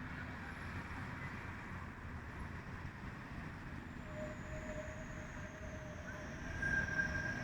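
Vityaz-M tram running with a steady rumble, its wheels starting to squeal on a curve about four seconds in: a high whistle sliding slowly downward and a mid-pitched squeal come in together, and a sharper, louder squeal joins near the end.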